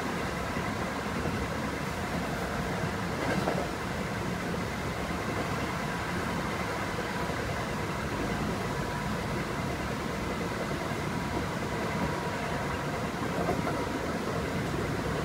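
Kintetsu 5800 series electric train running at steady speed, heard inside the passenger car: a continuous rumble of wheels on rail with a faint steady hum. It swells briefly twice, about three seconds in and near the end.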